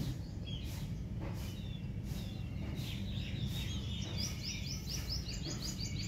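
Small birds chirping in quick runs of short falling notes, densest in the second half, over a low steady background rumble.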